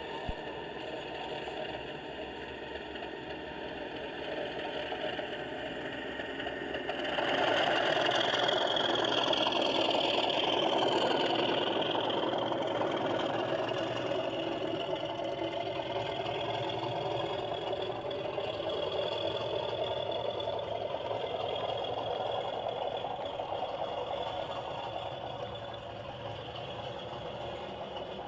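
Accurascale Class 37 00 gauge model diesel locomotive running round a model railway layout, with a steady engine-like sound. It grows clearly louder about seven seconds in, with a whine that dips and rises, then eases off again.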